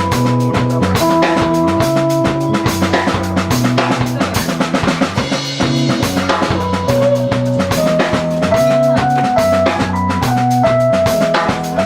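A live rock band playing an instrumental passage: a drum kit beats steadily with bass drum and snare under a bass line and a melody of held notes that step from pitch to pitch.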